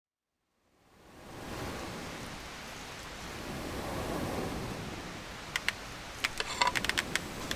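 Campfire burning: a steady rushing noise fades in after a moment of silence, and a run of sharp crackles and pops comes in the second half.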